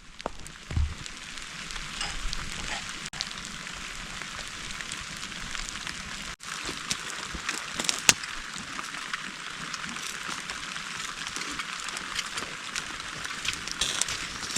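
Rain falling steadily, with a campfire of wet wood crackling and snapping.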